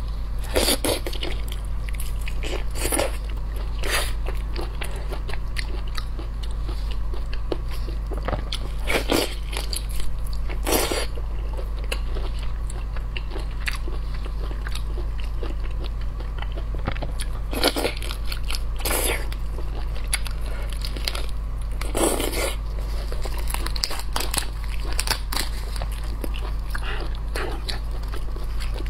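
Close-miked chewing and biting of raw lobster meat, with sharp wet clicks and crunches every few seconds, over a steady low hum.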